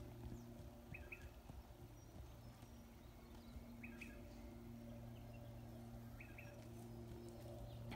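Quiet rural ambience: a bird repeats a short double chirp four times, every two to three seconds, over a faint steady low hum.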